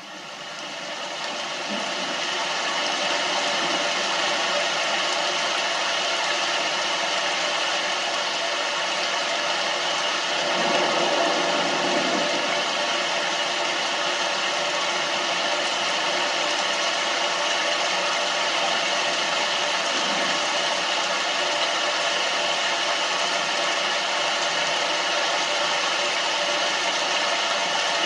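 Thunderstorm sound loop played through an Amazon Echo Dot's small speaker: a steady hiss of rain that fades in over the first two seconds. A low rumble swells about ten seconds in and again at the very end.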